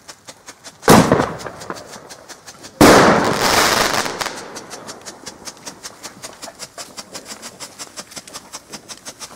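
Two loud firecracker bangs about two seconds apart, the second with a longer echoing tail that fades over about a second and a half. A fast, even crackle runs underneath.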